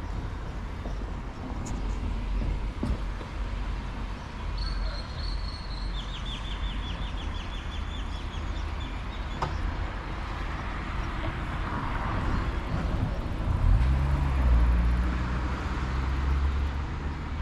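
Steady low rumble of road traffic, with a vehicle engine passing louder near the end. A small bird gives a rapid high trill of chirps in the middle.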